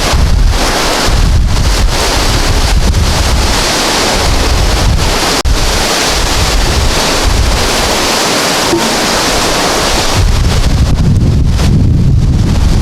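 Strong Santa Ana wind gusting across the microphone: a loud rushing noise with heavy low buffeting that eases for a few seconds midway and comes back strongly near the end.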